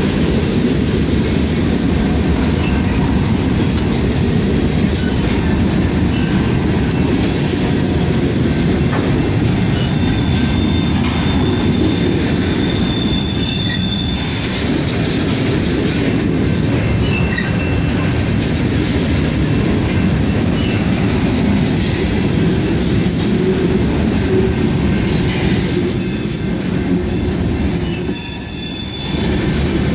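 Freight train of covered hopper cars rolling past close by: a steady, loud rumble of steel wheels on rail, with thin high-pitched wheel squeals a little before the middle and again near the end.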